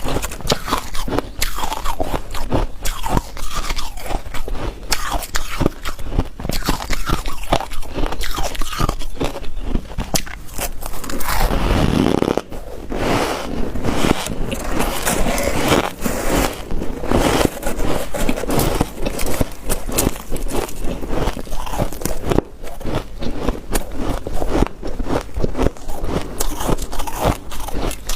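Hard white ice being bitten and chewed, with rapid, continuous crunching.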